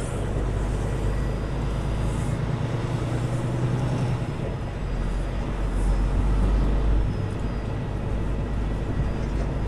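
Kenworth T680 semi truck's diesel engine running with a steady low rumble; it gets a little louder about six seconds in.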